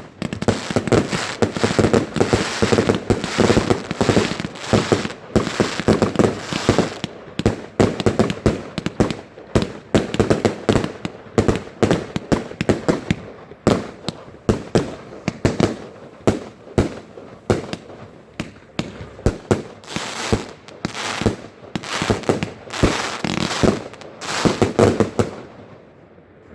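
Fireworks going off in a rapid, dense barrage of bangs and crackling, with echoing booms between them; the volley thins out briefly in the middle, then builds again and stops shortly before the end.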